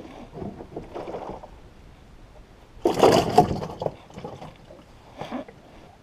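Water splashing and sloshing in a few irregular bursts, the loudest lasting about a second, beginning nearly three seconds in.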